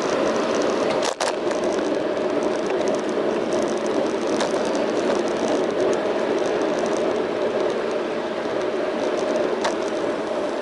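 Steady rushing ride noise picked up by a bicycle's front-mounted action camera: wind on the camera and the tyres on the road. There is a brief dropout with a click about a second in, and a few light ticks.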